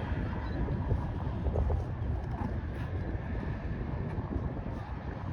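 Strong wind buffeting the microphone, a gusty low rumble that rises and falls throughout.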